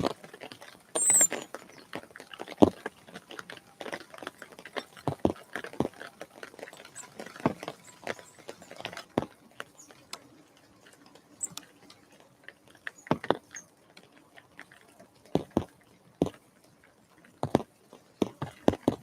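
Irregular tapping and knocking close to the microphone at a garden bird feeder, with a few short, high bird chirps, one clear one about a second in.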